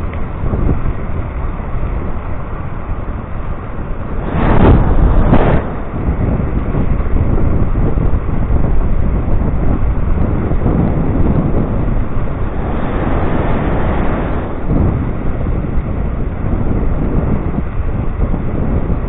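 Wind rumbling on the microphone of a moving electric scooter, with ride noise underneath; the wind swells louder about four seconds in and again around thirteen seconds.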